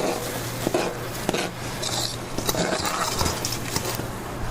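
Dishes and utensils clinking and clattering: a run of scattered sharp clicks and knocks over a steady background of room noise.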